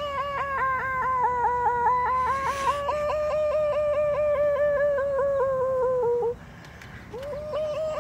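A boy's high-pitched warbling noise made with his mouth: one held note broken into about eight quick dips a second. It stops about six seconds in and starts again near the end.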